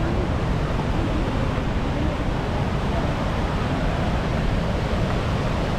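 Steady rush of waterfall water, mixed with wind buffeting the microphone.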